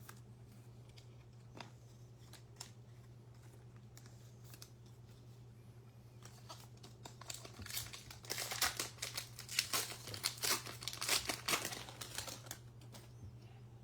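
Baseball card pack wrapper crinkling as it is torn open, a run of crinkling that starts about halfway through and lasts several seconds, with a few light clicks of handled cards before it. A low steady hum sits underneath.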